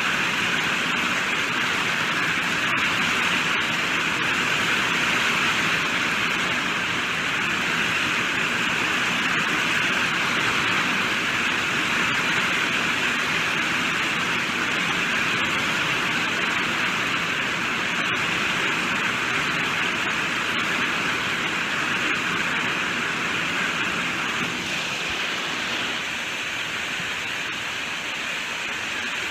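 Steady rainfall: a dense, even hiss of falling rain with a few sharper drop ticks scattered through it, getting a little quieter near the end.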